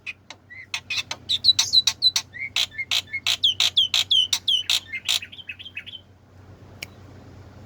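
Black-winged myna (jalak putih) singing vigorously: a fast run of sharp clicks mixed with repeated down-slurred whistles, stopping about six seconds in. A single sharp click follows near the end.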